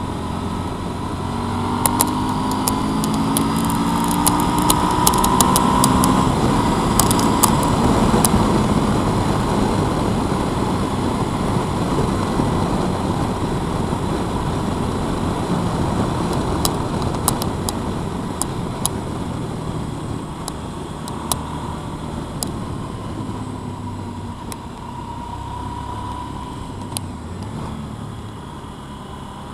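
Motorcycle engine running on the move, its pitch climbing as it accelerates in the first few seconds, then settling and slowly easing off, with scattered sharp clicks.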